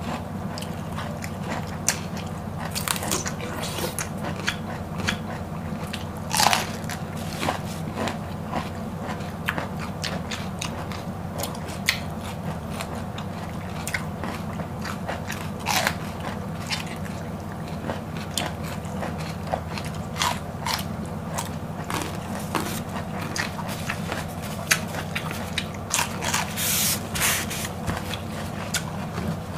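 Close-miked biting, crunching and chewing of raw green vegetables, with irregular crisp crunches throughout and a few louder bites, over a steady low hum.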